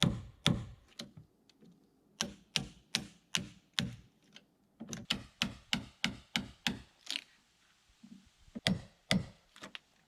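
Hand tool striking wood in quick runs of sharp knocks, about three a second, with short pauses between the runs.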